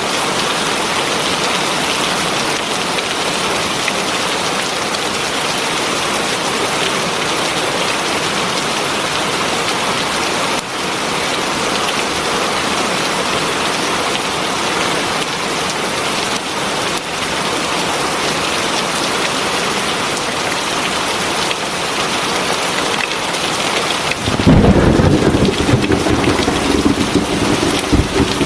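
Heavy rain falling steadily. Near the end a deep rumble of thunder rolls in and keeps rumbling.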